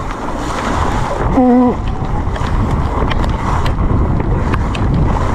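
Wind rushing over the camera microphone and the hiss of wet tyres as an e-mountain bike descends a rough trail in heavy rain, with scattered knocks from the ride and a short shout about one and a half seconds in.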